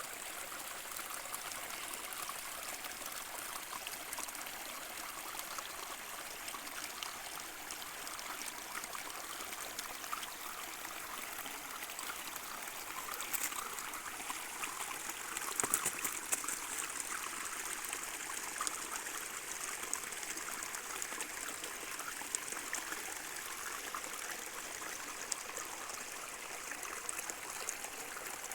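A small stream running and trickling steadily over rocks, with a couple of brief, sharper sounds about halfway through.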